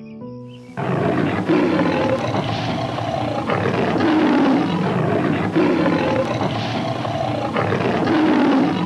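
Lion roaring and growling: a loud, rough call with repeated swells, starting about a second in, after a few soft music notes.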